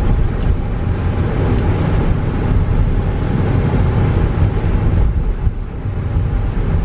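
Steady low rumble of a train, with a faint steady hum running through it. It is not a train approaching but one being worked on by a crewman.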